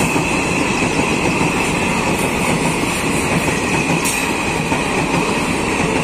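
Passenger express train's coaches rolling past: a loud, steady rush of wheels on rail with a steady high-pitched ring over it.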